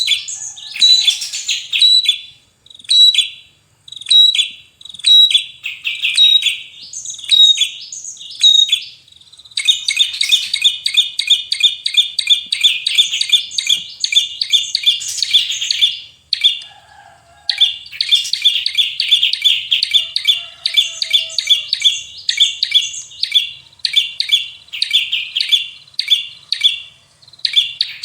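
Small songbird singing a fast, sharp, high-pitched song. It starts with short repeated phrases of chirps with a clear whistled note in each, then switches to long runs of rapid chattering notes, with a brief pause a little past the middle.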